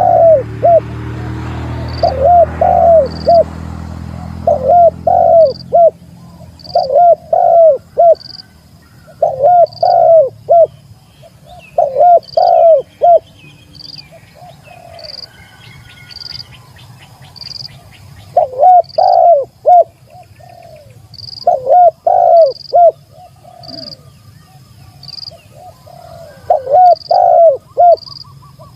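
Spotted dove (tekukur) cooing, repeated phrases of three or four notes every two to three seconds, with a pause of a few seconds midway; this is the territorial call used to lure rival doves. A short high chirp repeats about once a second behind it.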